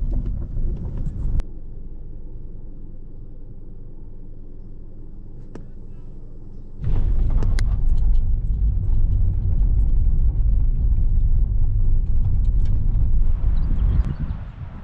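Car on the move: a steady low road and engine rumble. It drops suddenly to a quieter steady hum about a second and a half in, then comes back loud near the middle.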